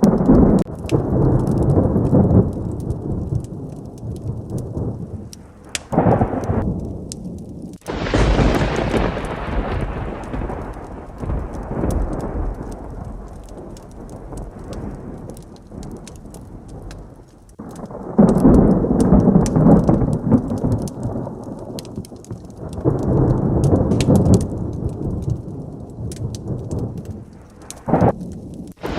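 Thunder rumbling in repeated rolls over steady heavy rain. A sharp thunderclap comes about eight seconds in and rolls away slowly, with another short crack near the end. Faint scattered ticks run through it all.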